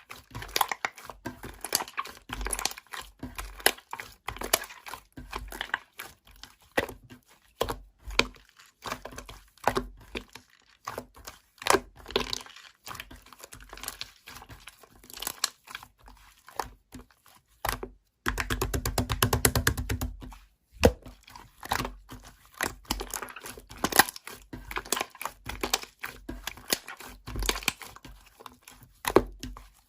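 Computer keyboard typing: quick, irregular key clicks, with a short run of rapid, evenly spaced clicks about two-thirds of the way through.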